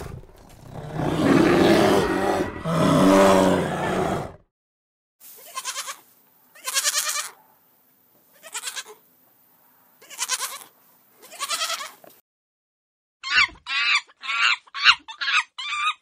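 Animal calls in three runs. First comes one long wavering call lasting about four seconds, then five short calls a second or two apart, then a quick series of high, sharp calls near the end.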